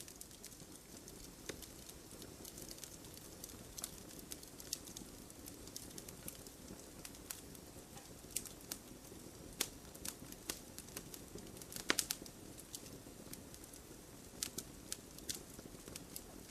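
Wood bonfire crackling: irregular sharp pops and snaps over a low, steady hiss of burning. The loudest cluster of snaps comes about twelve seconds in.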